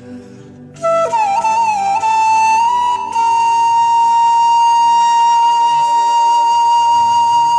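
Background music: a bamboo flute comes in about a second in with a short ornamented phrase, then holds one long note over a low drone.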